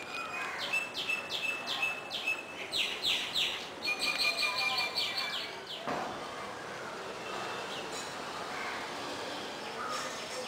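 A bird calling in a quick series of sharp, repeated high notes, about three or four a second, for around five seconds; after it stops suddenly, only faint scattered chirps are heard over background noise.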